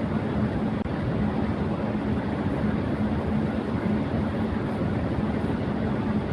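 Electric fan running at high speed: a steady airy whoosh with a low hum under it.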